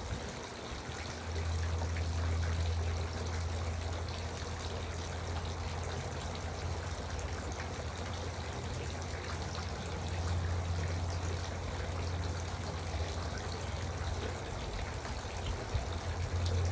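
Garden water fountain, water splashing and trickling steadily, with a steady low hum underneath.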